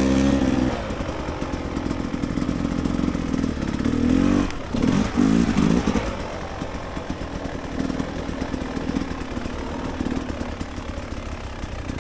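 Dirt bike engine running on a rough trail, with some clatter. It is revved hard at the start and again around four to six seconds in, the pitch rising and falling, and runs at lower throttle after that.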